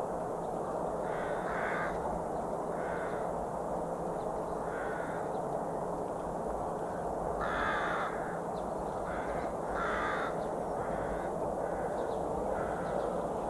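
Birds calling: a series of short calls, scattered at first and coming more often in the second half, over a steady background hiss.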